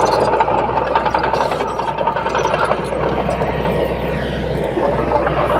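Komatsu D21P small bulldozer's diesel engine running steadily, with light rattling and clicking from the machine.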